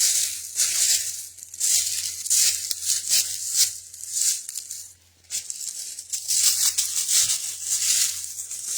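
Footsteps crunching over ground cover at a walking pace, about two steps a second, with a brief pause about five seconds in.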